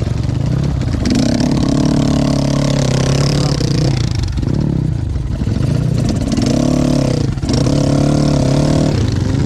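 Dirt bike engine revving hard in two surges, one from about a second in and one near the end, with a drop in between, as the bike labours at a steep, difficult section of trail.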